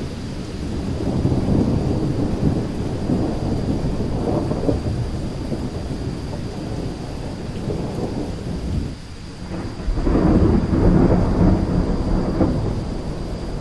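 Thunderstorm: low rolling thunder rumbling continuously over rain, easing off briefly about nine seconds in before a louder roll of thunder swells up.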